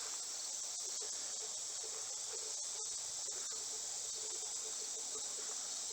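Steady, high-pitched chorus of insects, an even trill that does not change.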